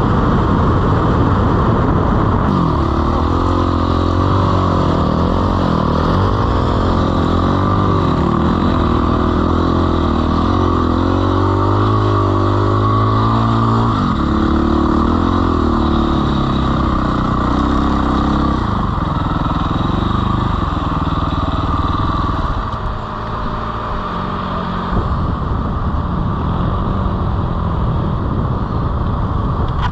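Dirt bike engine running under load through sand, its pitch wavering up and down with the throttle and shifting in steps a few times, over a steady rushing noise.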